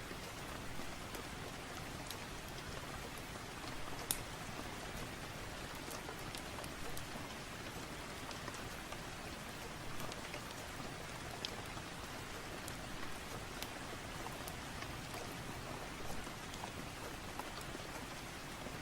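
Steady heavy rain, with scattered sharp crackles and pops from a fireplace mixed in; the loudest pop comes about four seconds in.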